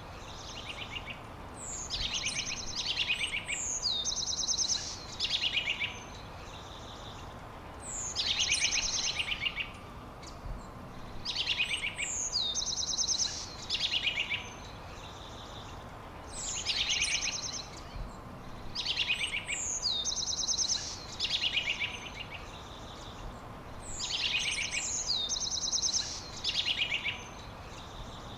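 A songbird singing the same short high-pitched phrase over and over, about once every two seconds; each phrase is made of rapid trills and a quick downward slur. A steady faint hiss runs underneath.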